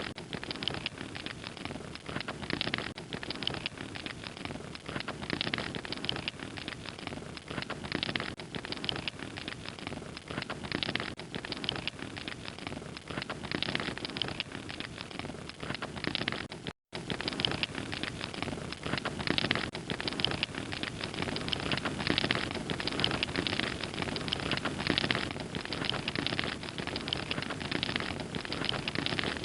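Fire crackling steadily with dense, continuous pops and snaps, cut off for a split second about seventeen seconds in.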